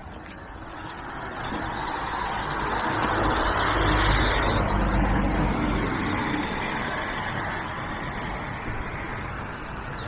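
A road vehicle passing close by, its engine and tyre noise building to a peak about four seconds in and then fading away.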